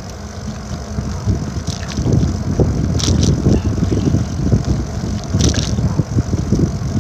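Storm wind buffeting the microphone of a moving bicycle, a gusty low rumble that swells and fades, with a few brief high hisses.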